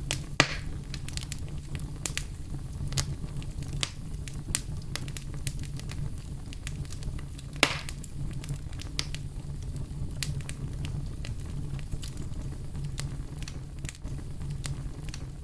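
Fire burning in a fireplace, crackling and popping over a steady low rumble, with two sharper pops about half a second in and about halfway through.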